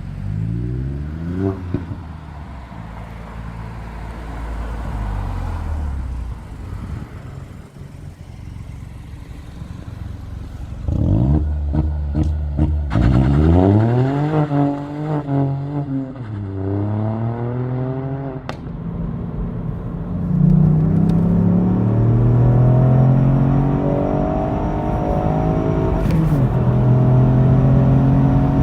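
Ford Fiesta ST Mk8's 1.5-litre turbocharged three-cylinder engine through its exhaust: a short rev blip near the start, then several quick revs up and down about halfway through. After that it pulls steadily up through the revs, with a brief drop in revs near the end.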